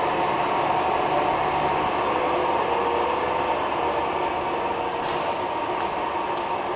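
Steady mechanical whine and rush from the DC-3's hydraulic landing gear system as the gear is extended after a countdown, easing off slightly toward the end, with a couple of faint clicks near the end.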